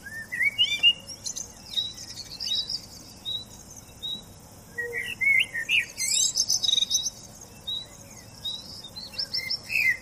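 Several birds chirping and singing, with overlapping whistled notes that rise and fall and a short call repeated about once a second.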